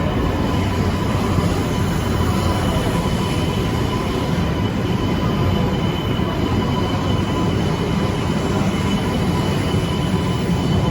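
Tohoku Shinkansen train running at a steady speed: an even, continuous rumble with a faint steady whine over it, no rise or fall as of a passing train.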